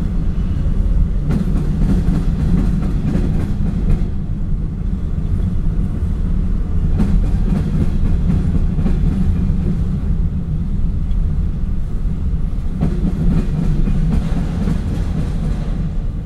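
Freight train of covered hopper cars rolling past close by: a steady low rumble of steel wheels on the rails, with repeated wheel clicks.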